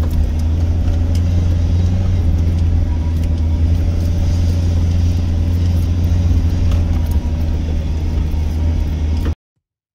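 A 4WD's engine and drivetrain heard from inside the cabin, a steady low drone while driving up a rocky dirt track. It cuts off suddenly near the end.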